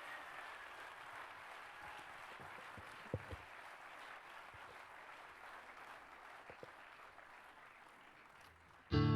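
Audience applause dying away to a faint patter, then a loud distorted electric guitar chord strikes right at the end.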